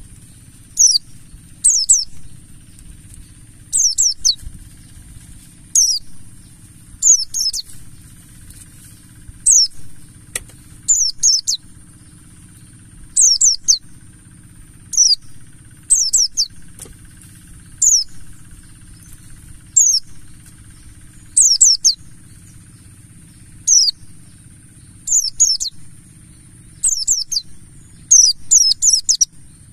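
White-eye (pleci buxtoni) song: short, high, quickly falling twittering phrases, repeated every second or two, over a faint steady high hiss.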